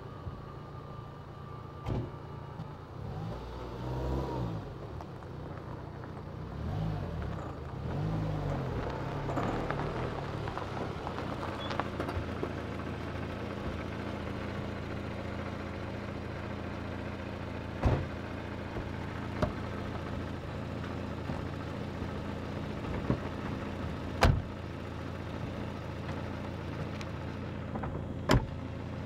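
Peugeot sedan's engine idling steadily, with a few short sharp knocks in the second half.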